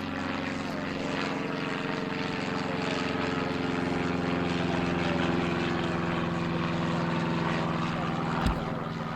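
Propeller aircraft engines running steadily: a drone of several steady tones, one of them shifting in pitch about four seconds in. A short knock near the end.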